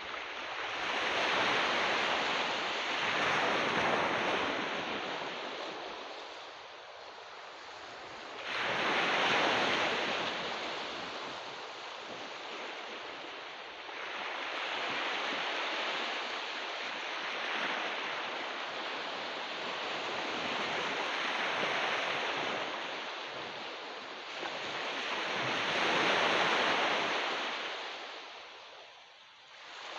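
Ocean surf breaking and washing up a beach, the noise swelling and ebbing in slow surges every several seconds.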